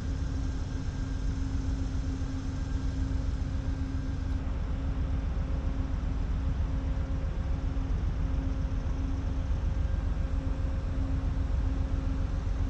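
Big diesel locomotive sitting idling, a steady low rumble with a constant hum: a racket.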